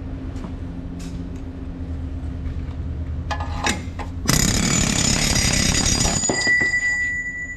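Pneumatic air hammer with a long tip firing in a burst of about two seconds, a little past halfway, driving a pin out of a grader's ripper linkage. Before the burst there is a steady low engine hum, and after it a thin high whistle lingers.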